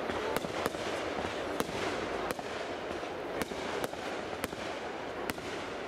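Aerial fireworks bursting: about eight sharp bangs at irregular intervals over a continuous hiss.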